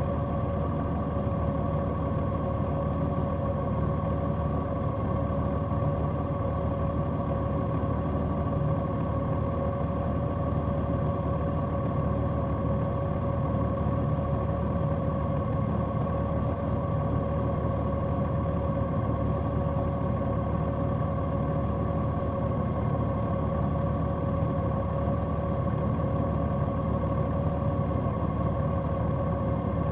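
Large motorcycle's engine running at a steady speed, a constant hum with a low rumble underneath and no change in pitch.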